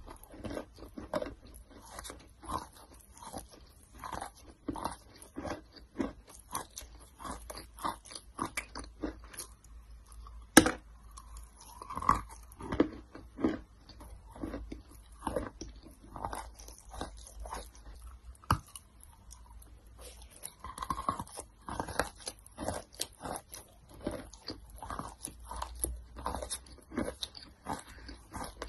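Close-up chewing of wet clay: a steady run of small crunches and sticky mouth sounds, with one sharper snap about ten seconds in.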